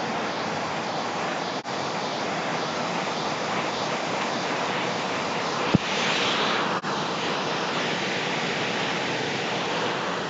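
Steady rushing of Glencar Waterfall, its water falling and running close by, with a single brief thump a little past halfway.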